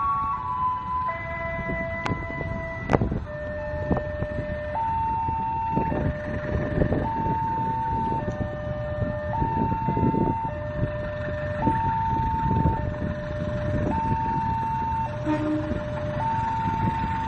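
Railway level-crossing warning alarm sounding a two-tone high-low signal, each tone held about a second and repeating steadily, warning that a train is coming. A low rumble runs underneath, with two sharp clicks about two and three seconds in.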